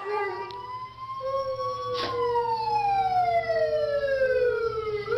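A siren-like wail of two long smooth tones: one is held steady while the other rises slightly, then slides slowly down over about three seconds. A sharp click comes about two seconds in.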